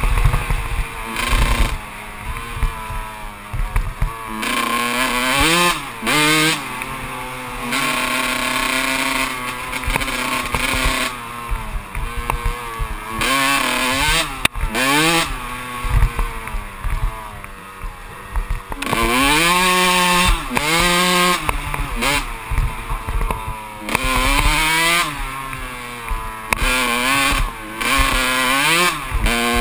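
Kawasaki KX125 two-stroke dirt bike engine being ridden hard off-road, its pitch rising under throttle and falling back again and again in quick surges.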